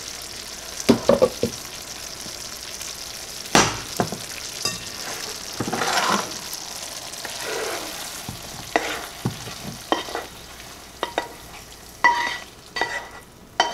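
Butter and brown sugar sizzling around apple slices in a hot skillet, with a steady hiss. Several sharp knocks of cookware come through, and near the end a spatula scrapes and clinks against the pan as the apples are scooped into a bowl.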